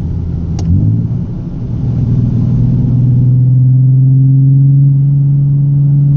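Car engine under way: its note rises about a second in, then holds at a steady, even drone. A single sharp click sounds just before the rise.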